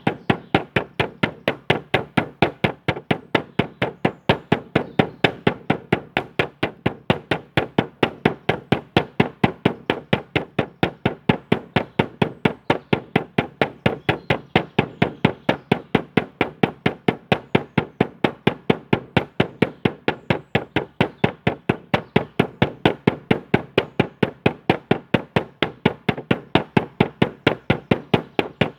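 A drum beaten in a steady, even pulse of about three strikes a second, every strike at much the same loudness.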